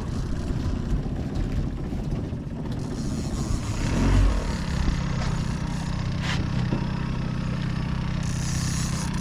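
Boat motor running steadily under a low rumble of wind and water, with a low thump about four seconds in; from then on a steady engine hum stands out.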